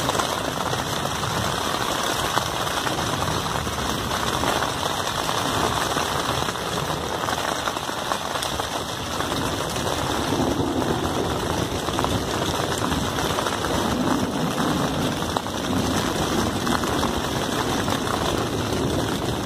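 Heavy rain beating steadily on the fabric of an Ozark Trail 6-person tent in a thunderstorm, heard from inside the tent.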